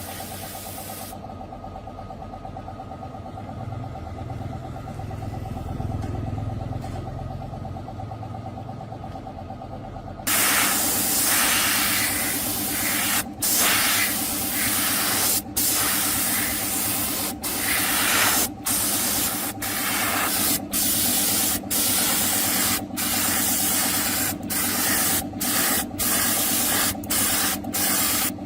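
Compressed-air spray hissing loudly in long bursts, starting about a third of the way in and cut by brief pauses every second or two as the trigger is released. Before it, a lower steady hum.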